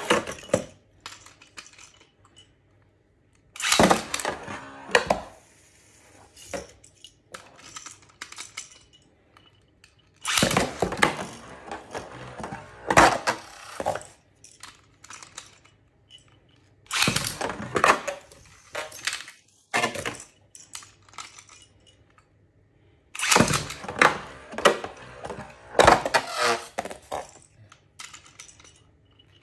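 Beyblade spinning tops launched into a plastic stadium, clashing and rattling against each other and the stadium walls. There are four rounds, each a few seconds of hard clicks and clatter that dies away before the next.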